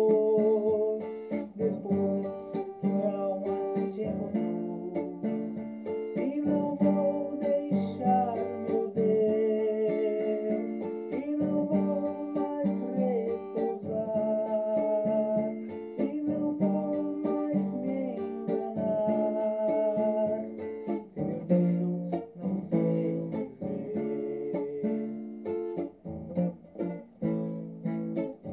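Acoustic guitar music, plucked and strummed, with a melody line moving over it.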